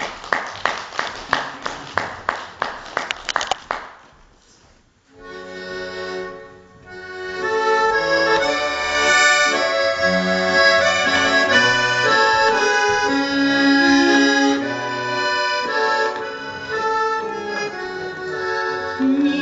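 Accordion playing an instrumental introduction: chords and a melody line that come in about five seconds in and grow louder. Before that, a quick run of sharp, evenly spaced strokes, about four a second, stops near four seconds.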